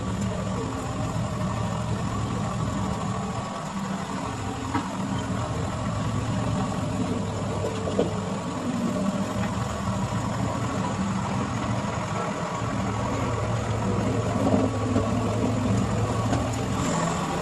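A car engine running steadily, with a few brief clicks over it.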